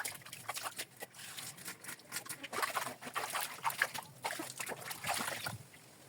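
Cleaning sounds: irregular knocks and clinks with scrubbing and a little sloshing water.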